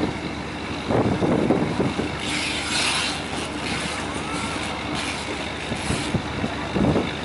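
A large engine running, with irregular low thumps and short bursts of hissing about two to three seconds in and again near five to six seconds.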